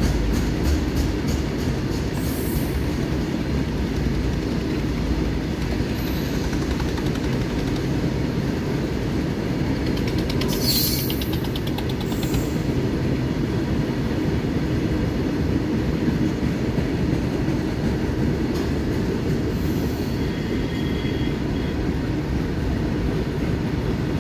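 Freight wagons of an Indian Railways goods train rolling past: a steady low rumble with the clatter of the wheels, and a few brief high-pitched wheel squeals about 2 s, 11 s and 20 s in.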